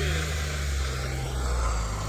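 Off-road vehicle's engine running steadily, with a low hum.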